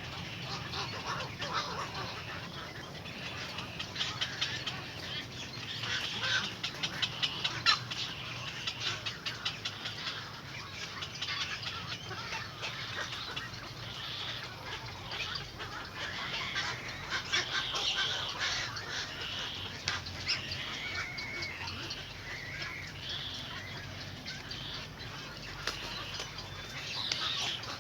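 Small birds at a nest chirping in rapid runs of short, high calls, busiest a few seconds in, with a few clearer pitched notes later on.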